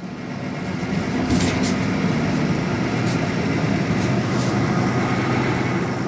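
Steady rumble and hum of a moving vehicle heard from inside, fading in over the first second, with a couple of brief hisses.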